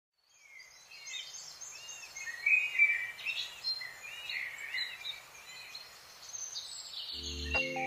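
Small birds chirping and twittering outdoors, many short quick notes rising and falling, with a couple of louder bursts midway. Music comes back in near the end.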